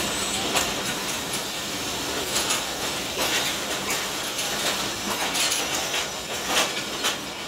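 Two passenger trains running side by side on parallel tracks: a steady rumble of coach wheels on the rails, broken by irregular clicks and clatter over rail joints, heard through an open coach doorway.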